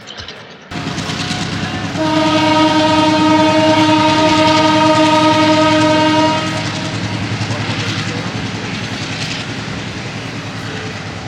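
A train sounding its horn in one long blast of about four seconds, over the rumble and rhythmic clatter of its wheels on the rails. The rumble comes in suddenly just under a second in and slowly fades after the horn stops.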